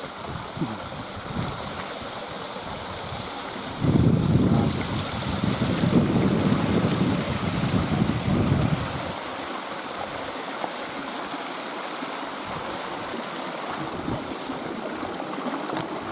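Stream running steadily. A gust of wind buffets the microphone for about five seconds, starting some four seconds in.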